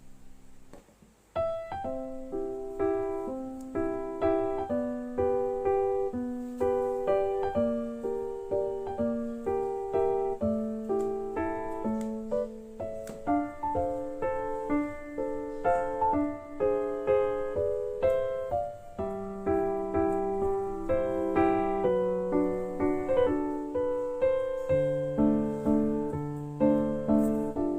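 Background piano music: a gentle melody of struck notes in a steady rhythm, starting about a second in after a brief quiet moment.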